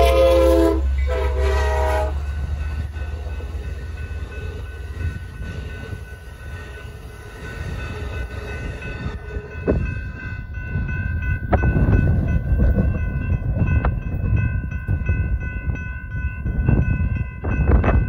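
Amtrak San Joaquins passenger train's horn sounding a chord, ending in two blasts about two seconds in, over the low rumble of the passing train, which fades away. From about halfway the crossing's warning bell rings steadily, with wind gusting on the microphone.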